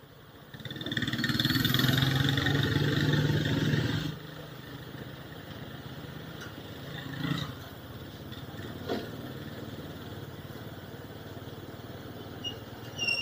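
Motorcycle engine running on the road, picked up by an action camera's built-in mic. It is louder for the first few seconds, then drops off at about four seconds to a steadier, quieter run with road noise.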